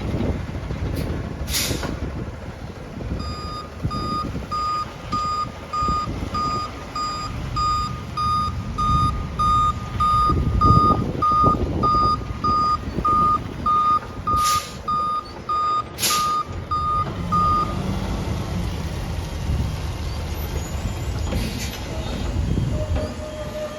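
Garbage truck backing up: its reversing alarm beeps steadily, about two beeps a second, over the diesel engine's running, then stops a few seconds before the end. A few short hissing bursts cut in, one early and two near the end of the beeping.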